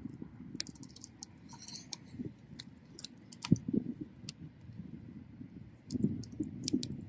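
Wood bonfire crackling: irregular sharp pops and snaps over a steady low rush of the flames, with a brief hiss about a second and a half in and the loudest snaps about halfway through and near the end.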